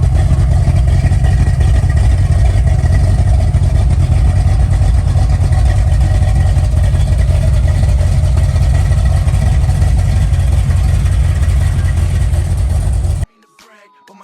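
Vehicle engine running steadily with a deep, even rumble and no belt squeak audible. It cuts off abruptly about a second before the end.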